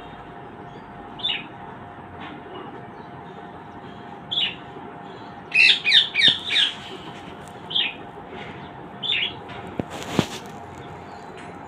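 Pet birds giving short chirps and squawks every second or two, with a quick run of about five louder calls about halfway through. A single sharp knock comes near the end, over a steady hum.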